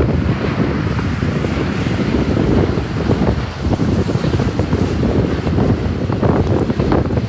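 Strong gusty wind buffeting the microphone: a loud, fluttering low rumble.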